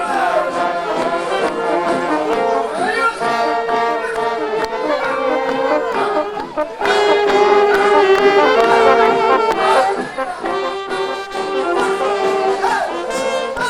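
Music played on brass instruments, with long held notes in a melody, getting louder about halfway through.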